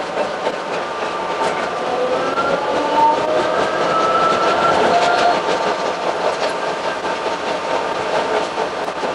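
Narrow-gauge electric railcar running, heard from inside the cab: a steady rattling rumble with frequent clicks from the wheels and track, and whining tones that slide up and down in pitch.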